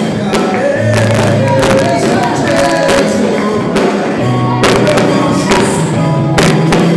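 Gospel worship music: singing over held bass notes, with frequent percussion hits.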